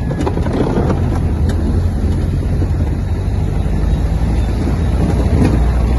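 Motor vehicle running along the road: a steady low rumble, with a few faint clicks.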